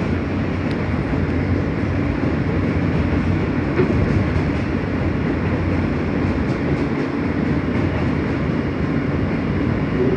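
Subway train running, heard from inside the car: a steady rumble of wheels and motors on the rails.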